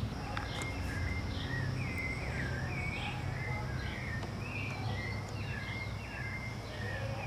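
Small birds chirping over and over in short swooping notes, over a steady high hiss and a low background rumble.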